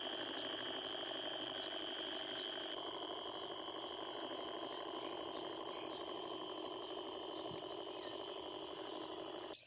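Two small DC motors spinning the propellers of a cardboard model helicopter: a steady, high buzzing whine that changes pitch pattern about three seconds in and cuts off suddenly at the end.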